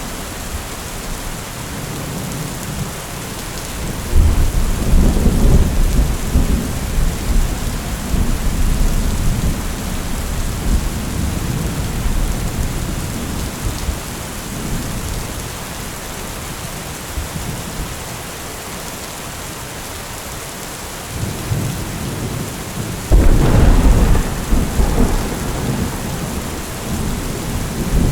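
Steady rain falling, with two rolls of thunder. The first comes a few seconds in and rumbles for several seconds. The second is a louder, sharper clap near the end that keeps rumbling.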